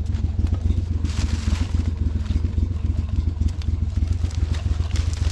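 Small boat motor running at idle: a steady, low, rapidly pulsing engine rumble, with a brief hiss about a second in.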